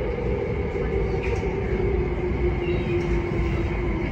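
Kinki Sharyo–Kawasaki electric multiple-unit train running at speed, heard from inside the car: a steady rumble of wheels on the track with a whine that slowly falls in pitch.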